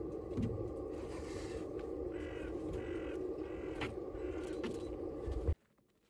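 A bird calls four times in a row, harsh and evenly spaced, over a steady outdoor background hum. Near the end all sound cuts off suddenly.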